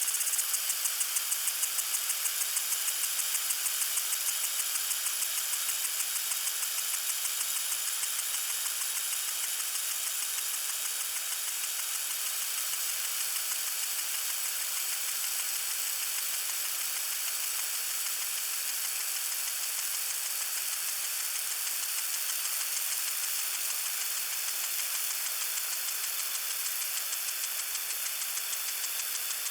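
Lawn sprinkler spraying water: a steady hiss with a fast, even ticking, plainest in the first few seconds.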